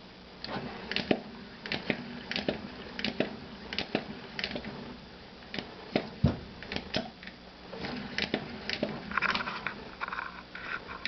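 Model caloric hot-air engine turning over slowly at start-up, giving a sharp click or knock about every half to three-quarters of a second at slightly uneven spacing, over a steady low hum.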